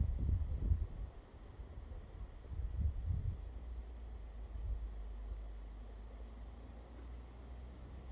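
Distant thunder rumbling low, strongest in the first second and again about three seconds in, over a steady high insect chirring.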